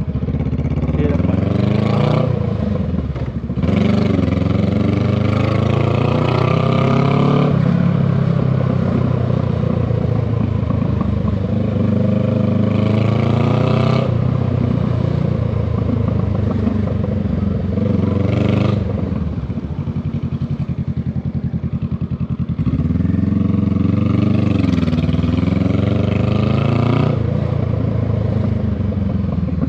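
Honda Rebel 500's parallel-twin engine and exhaust under way, pulling through the gears in several rising runs, with the pitch dropping at each shift and easing off and picking up again near the end.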